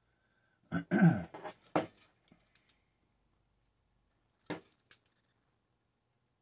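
Handling noise and a short clatter of parts about a second in, then two sharp snips of side cutters cutting through wire about four and a half seconds in.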